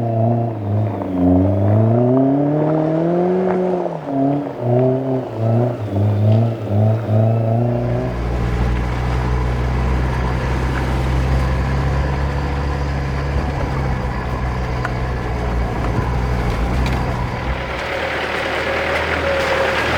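Off-road 4x4's engine revving up and down as it works over a rough track. After about eight seconds it settles into a steadier, deeper drone, and a rushing hiss joins near the end.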